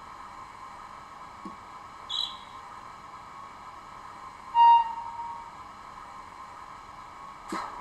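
Sound decoder of a model E626 electric locomotive playing through its small speaker: a steady hum, with a short, loud toot about four and a half seconds in.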